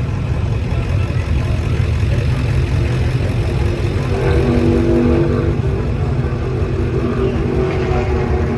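Vehicle engines running with a loud, steady low rumble; a steadier engine note comes up from about four seconds in.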